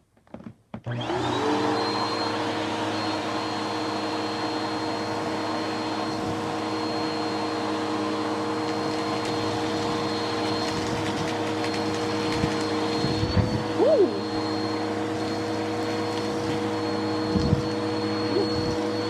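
Dirt Devil vacuum cleaner switched on about a second in, its motor spinning up quickly and then running steadily with a high whine over the carpet. A few brief knocks come near the end.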